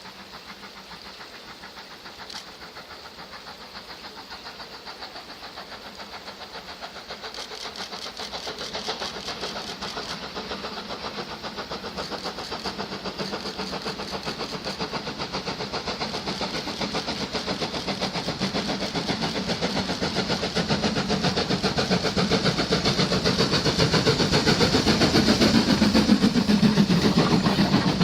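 Ivatt Class 2MT 2-6-2T steam locomotive working toward the listener, its exhaust beating in a rapid, even rhythm that grows steadily louder as it draws near.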